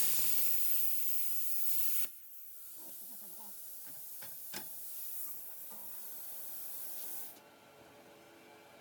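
Plasma cutter hissing loudly, then dropping about two seconds in to a softer rush of air that stops suddenly about seven seconds in.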